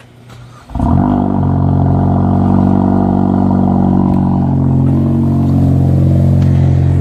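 Volkswagen Jetta Mk4's turbocharged engine starting about a second in, briefly flaring up, then settling into a steady idle.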